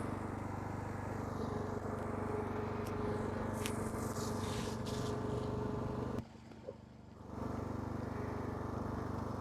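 Lawn mower's small engine running steadily, with a sudden drop-out lasting about a second some six seconds in before it returns.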